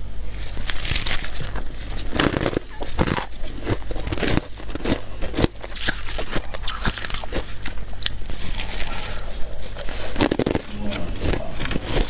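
Close-miked biting and chewing of soft, powdery freezer frost: dense, irregular crunches one after another, over a steady low hum.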